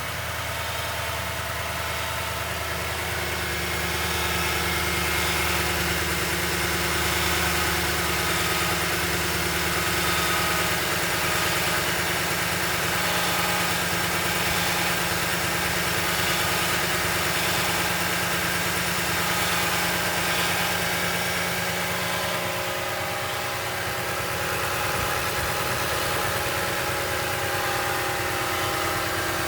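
Toyota Tundra 5.7-litre V8 engine idling steadily, with the strange noise its owner is trying to show. The tone shifts slightly about four seconds in and again around twenty-two seconds.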